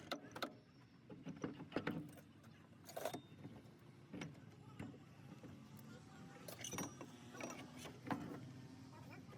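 Scattered sharp clicks and knocks at irregular intervals over a faint low background hum, several with a brief metallic ring.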